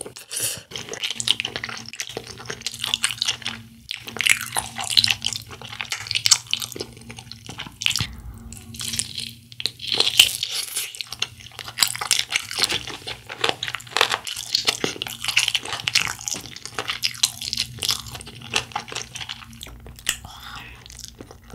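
Close-up eating sounds of sauced fried chicken (BHC Bombastic) being bitten and chewed: irregular wet, sticky crackles and smacks with some crunch.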